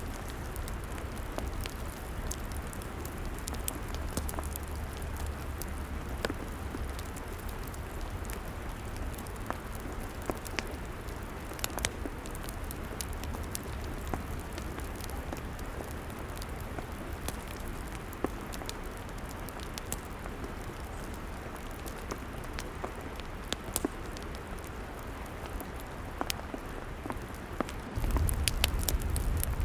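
Log fire crackling: a steady hiss with frequent sharp, irregular pops and snaps. About two seconds before the end a low rumble comes in louder.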